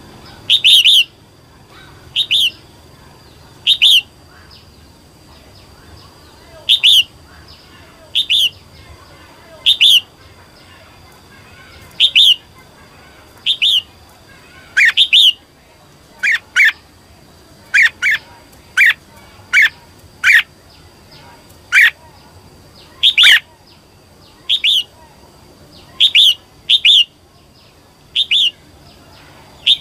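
Female red-whiskered bulbul giving short, sharp chirping calls, one every second or two at uneven gaps; this is the female call used to rouse male bulbuls.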